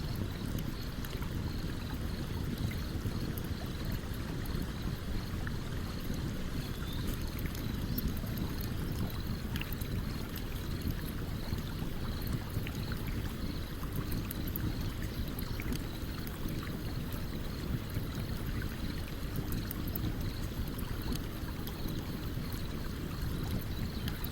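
Stream water running steadily under the scattered small pops and crackles of a burning campfire. A faint, high chirp repeats about twice a second throughout.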